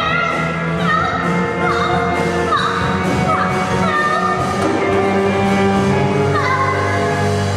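A musical theatre song: a voice singing with sliding, bending notes over a steady band accompaniment.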